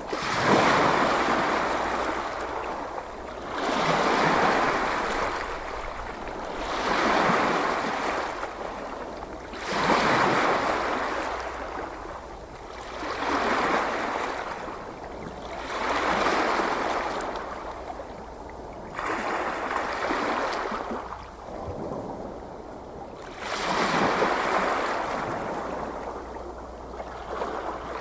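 Gentle ocean waves breaking on a shore, each wash of surf swelling and falling away about every three to four seconds, with a quieter stretch a little past the middle.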